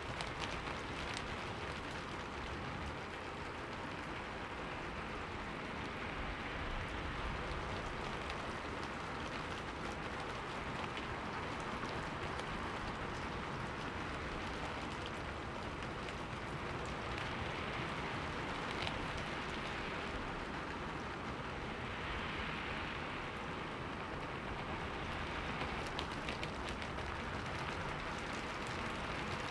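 Steady rain falling on a window pane, an even hiss with many small drop ticks throughout.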